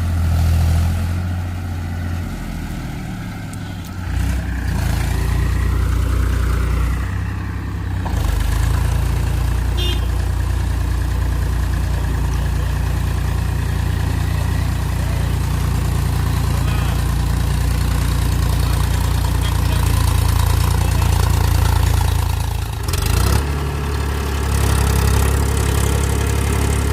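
Tractor diesel engine running steadily with a low drone, its note shifting a few times and briefly dropping near the end.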